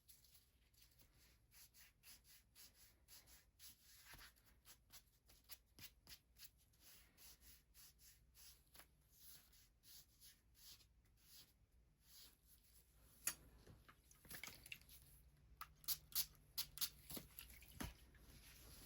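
Hands massaging bare feet: faint, irregular rubbing and brushing strokes of skin on skin, growing louder in the last few seconds with a few sharp clicks and taps.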